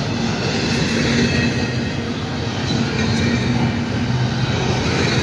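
Double-stack intermodal freight cars rolling past at track side: steady noise of steel wheels running on the rails, with a low drone that comes and goes.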